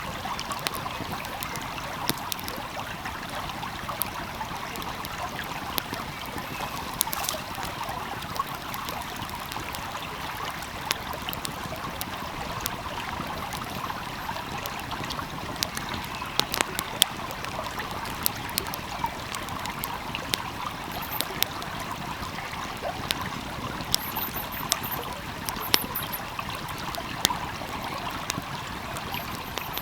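A flowing stream with a steady rush and burble, and the crackle of a wood fire over it: sharp, irregular pops, coming more often from about the middle onward.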